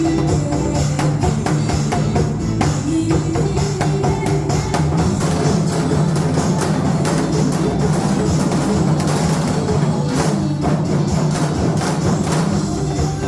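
Janggu, Korean hourglass drums, struck over and over in a basic rhythm along with an upbeat recorded song.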